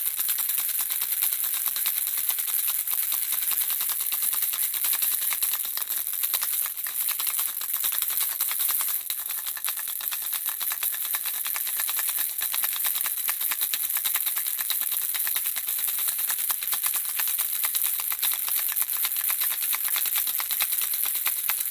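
Handheld baby rattle shaken without pause, the small beads inside making a dense, even stream of fine clicking.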